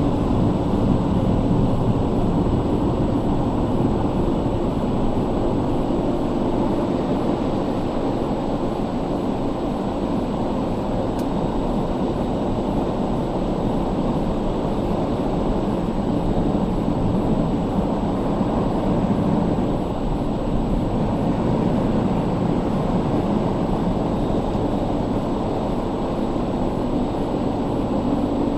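Automatic car wash drying blowers running with a steady, even roar.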